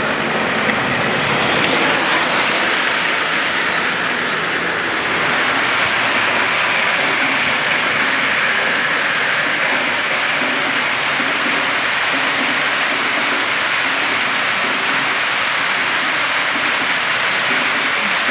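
Lionel model trains running on the club layout, a steady, continuous rolling noise of wheels on track and train motors.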